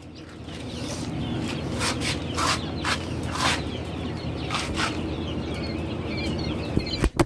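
Farmyard chickens calling in short squawks and clucks over a steady low rumble, with small high chirps from other fowl in the second half. Two sharp clicks come near the end.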